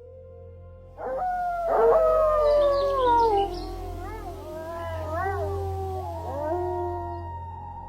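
Wolves howling together: several overlapping long, wavering howls starting about a second in, most sliding down in pitch, over a steady low drone.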